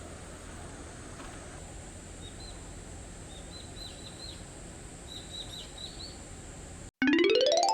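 Steady rushing of river water with small birds chirping in short calls and a thin, steady high tone. About seven seconds in, this cuts to a loud, quickly rising chime-like sweep that rings out as a transition sound effect.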